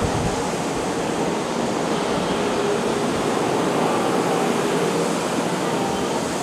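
Nankai 8300-series electric train slowing as it pulls into the platform: a steady rolling noise from its wheels and running gear, with a faint steady hum under it.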